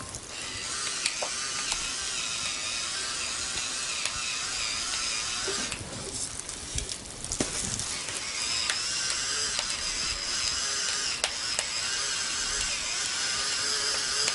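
Pepper grinder grinding whole peppercorns in two long, steady stretches, with a short pause about six seconds in.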